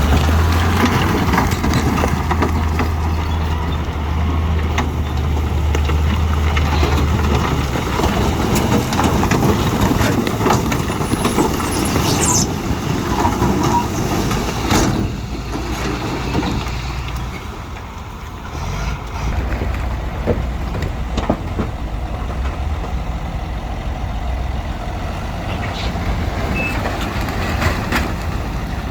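Heavy diesel earthmoving machinery working: a deep engine running, strongest in the first several seconds, with scattered clanks and knocks. The sound dips briefly past the middle.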